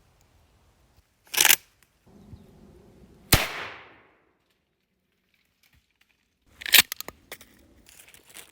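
Sharp cracks and snaps: a short rustling burst, then one loud crack with a fading tail about three seconds in, and a quick cluster of snaps near the end.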